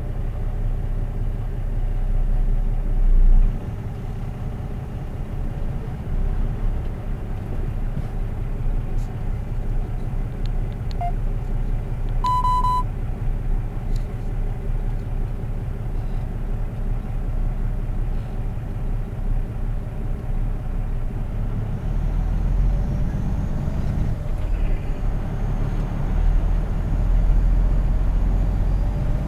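Vehicle engine idling and then pulling away at walking pace, a steady low rumble picked up inside the cab by the dashcam. About twelve seconds in, a short electronic beep sounds once.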